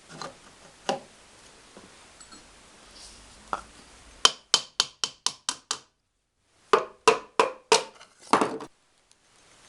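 Two quick runs of sharp knocks, about six in each at roughly four a second, with a brief silence between them; a few fainter knocks come earlier.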